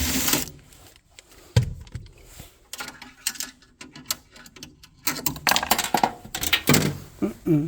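Irregular clicks, knocks and short scraping and rustling noises of parts being handled, busiest near the end.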